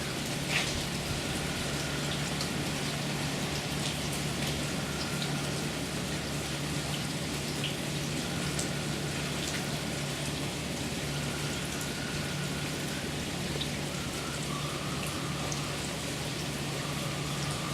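Steady rain falling, with scattered individual drops ticking on a surface. A low steady hum runs underneath.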